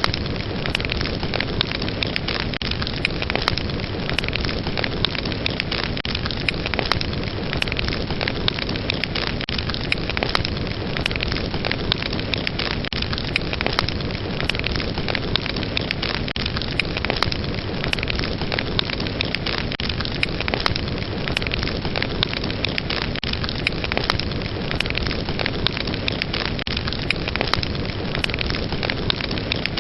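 Fire crackling steadily: a continuous hiss with frequent sharp crackles and pops throughout.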